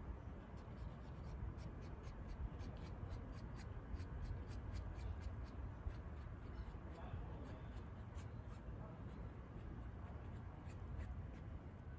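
Paintbrush working paint onto a canvas: soft scratchy strokes with many small irregular ticks and taps.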